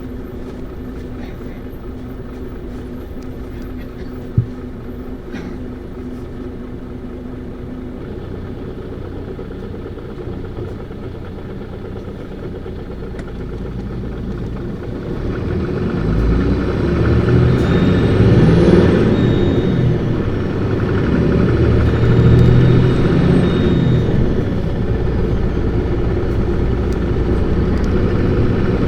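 Isuzu PKG-LV234Q2 city bus's turbo-diesel straight-six, heard from inside the cabin. It runs low and steady for the first half, with one sharp click about four seconds in. From about halfway it is revved hard as the bus accelerates, louder, with a high whine rising and falling twice.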